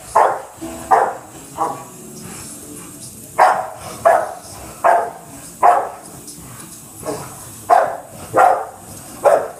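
Dog barking repeatedly: about eleven short, loud barks in three quick runs, roughly one every 0.7 seconds.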